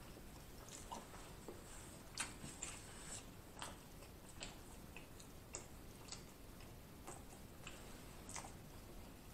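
Faint chewing of a corn dog, heard as soft, irregular mouth clicks and smacks, about one every half second to second.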